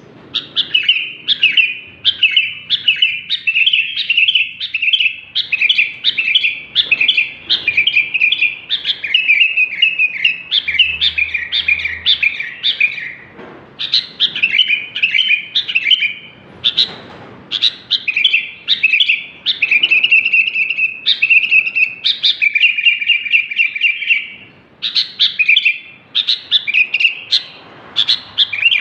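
Sooty-headed bulbul (kutilang) singing almost nonstop: quick, repeated chirpy phrases, with only a few short pauses.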